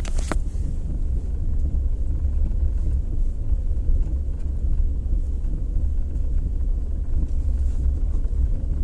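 Maruti Suzuki Alto 800 on the move at slow speed, giving a steady low rumble with a rattling vibration ("ढर्र"), a fault later traced to the drive axle.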